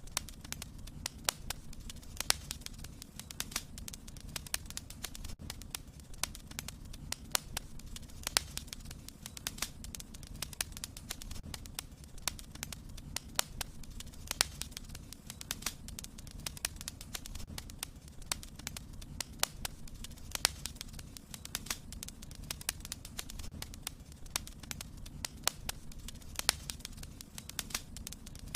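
Fireplace fire crackling, with frequent sharp, irregular pops over a steady low rumble of the flames.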